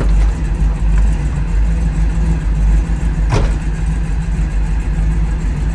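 1970 Camaro's fuel-injected 396 big-block V8 idling steadily, heard from inside the cabin. A single short knock comes about three seconds in.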